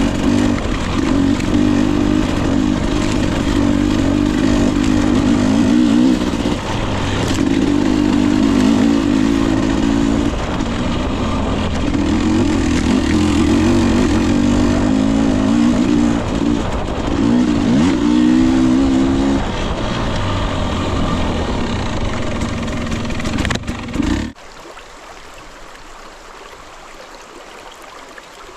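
Husqvarna TE 250i two-stroke dirt bike engine being ridden, its pitch rising and falling with the throttle. About four-fifths of the way through the engine sound stops suddenly, leaving a quieter steady hiss.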